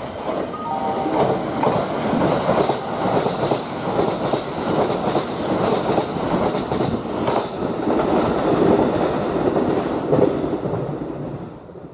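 Kintetsu 80000 series Hinotori limited express passing through the station at speed: a heavy rush of train noise with wheels clacking over rail joints. A short electronic chime sounds about a second in.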